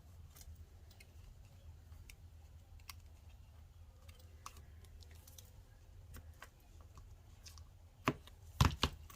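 Faint scattered clicks and taps of hand tools and paper being handled at a craft table, over a low steady hum, with three sharper clicks close together near the end.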